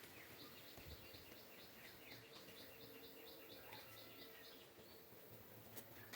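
Faint bird calling in the background: a run of short, evenly repeated high chirps, about three or four a second, that stops about two-thirds of the way through, over near-silent outdoor ambience.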